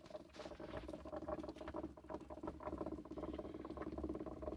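Rapid, fine bubbling and crackling from low in a van's engine, a steady stream of tiny ticks. Its cause is unknown; the owner suspects the engine coolant is low.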